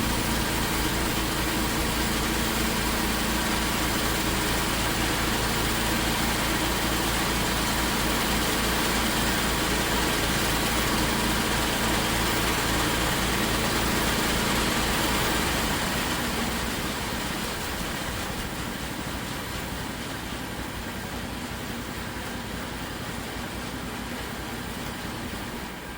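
Engine of 1980-era farm machinery running steadily with a deep, even hum. About two-thirds of the way through, the low engine note falls away and a quieter hiss remains.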